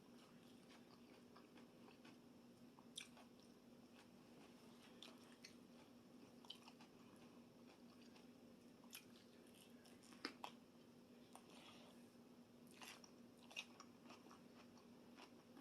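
Faint chewing and crunching of a person eating a cucumber salad, with a few louder crunches at about three, ten and thirteen seconds in, over a steady low hum.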